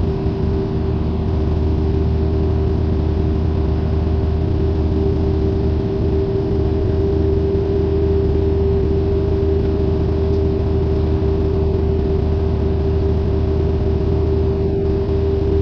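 Steady drone of a Cessna 172N's four-cylinder Lycoming engine and propeller running at a constant setting, with a strong steady hum and a deep low rumble.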